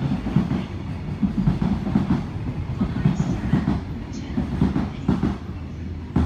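A train rolling through the station, its wheels clattering irregularly over rail joints and points, with a sharp knock near the end.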